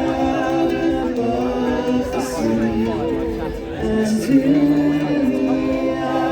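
Several voices singing together in harmony, with long held notes and some vibrato; the singing sounds unaccompanied.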